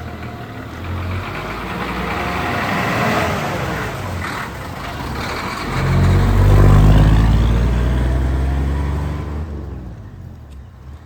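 Isuzu BXD30 bonnet bus's DA640 diesel engine running, swelling into a loud rev about six seconds in, then fading out near the end.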